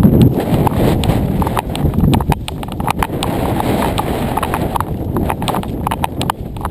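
Footsteps on hard ground with gear rattling, an irregular run of knocks and clicks over the low rumble of a body-worn camera's microphone being jostled.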